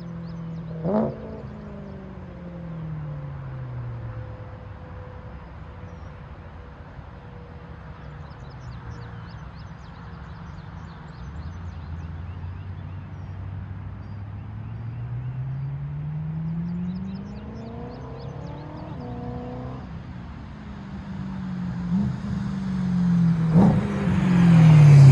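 BMW M3's 4.0 V8 exhaust with the mufflers deleted, running under way. The engine note falls as it slows, then climbs steadily under acceleration over several seconds before dropping off again. There is a sharp crack about a second in, and the exhaust swells to its loudest near the end.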